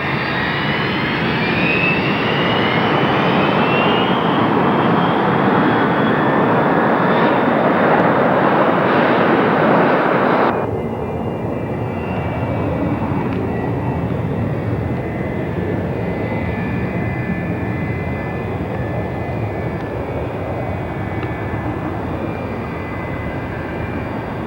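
Jet airliner engines at takeoff power, with whines rising in pitch over the first few seconds. About ten seconds in, the loud roar cuts off abruptly to a quieter, steady engine roar with a faint steady whine.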